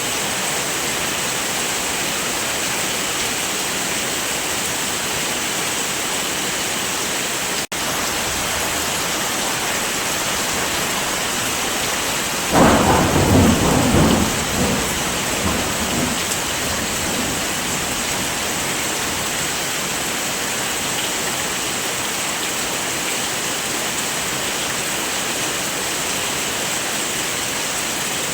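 Steady heavy rain. About twelve and a half seconds in, a peal of thunder cracks and rumbles for roughly three seconds before fading back into the rain. Near eight seconds the sound briefly cuts out for an instant.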